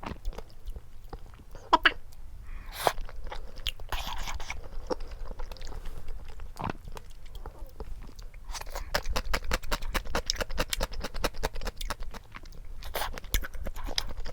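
Close-miked biting and chewing of food, with a fast run of crunchy chewing sounds in the second half.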